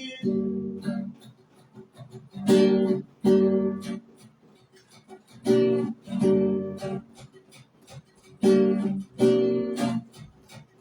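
Acoustic guitar strummed, with pairs of chords coming about every three seconds and short quiet gaps between them.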